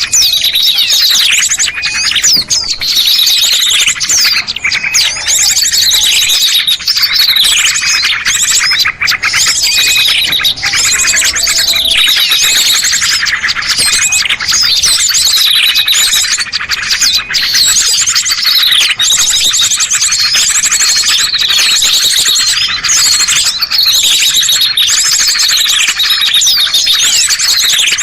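A dense chorus of many small songbirds chirping and calling over one another without pause, with repeated downward-sweeping calls and fast, high trills: a bird-lure (pikat) recording for small birds.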